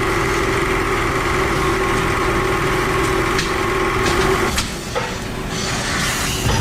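A motor runs with a steady hum and cuts off about four and a half seconds in, with a few sharp clicks around the stop.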